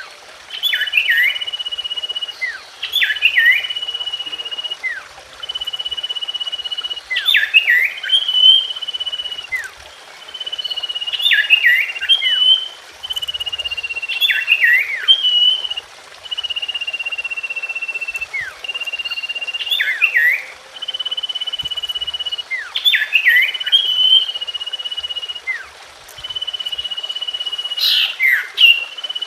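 Common iora (cipoh) singing: a long, steady whistle followed by a quick cluster of sliding notes, the phrase repeated over and over every few seconds.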